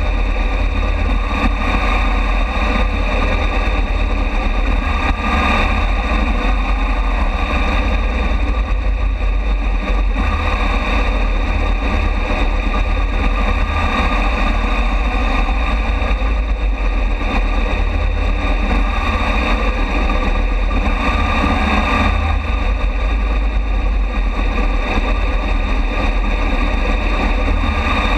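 Harley-Davidson Deluxe V-twin engine running steadily at low parade speed, heard from a camera mounted low at the front fender, with other motorcycles running nearby. The sound is unbroken, with a strong low rumble.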